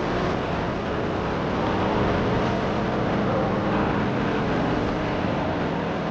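Steady road traffic noise: vehicle engines running on a city road.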